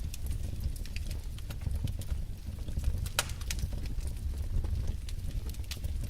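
Wood fire burning in a fireplace: a low steady rumble of flame with irregular sharp crackles and pops from the burning logs, one louder pop about three seconds in.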